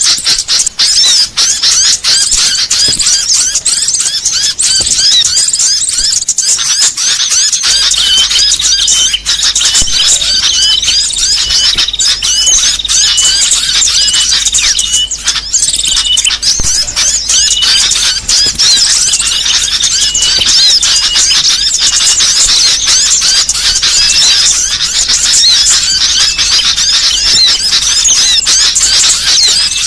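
A dense, noisy chorus of many small songbirds chattering and chirping, high rapid calls overlapping without pause, with a repeated short chirp standing out through the middle. It is a bird-trapper's lure recording meant to attract small birds.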